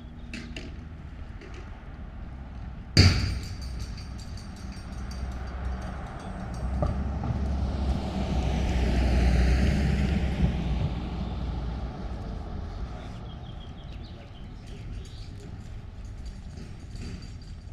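A car driving past, its tyre and engine noise swelling to a peak midway and fading away. A single sharp metallic clack about three seconds in is the loudest sound.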